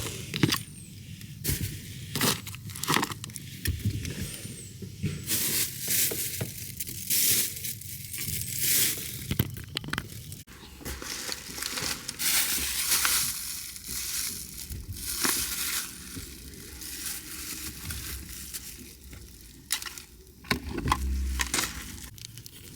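Trash being gathered up by hand: wrappers and bags crinkling and rustling in irregular bursts.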